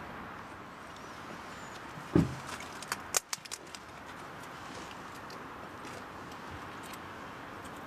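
A single dull thump about two seconds in, followed at once by a quick run of light sharp clicks and clinks, over a steady background hiss.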